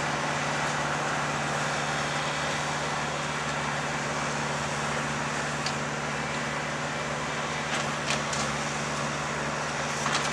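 An engine running steadily at idle with a low, even hum, with a few light clicks or knocks near the end.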